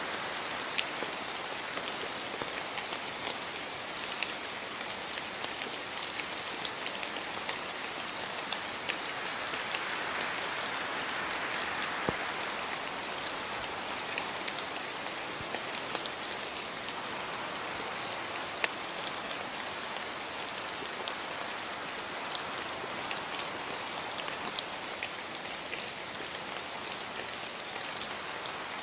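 Steady rain falling, an even hiss dotted with many individual drops ticking sharply close by.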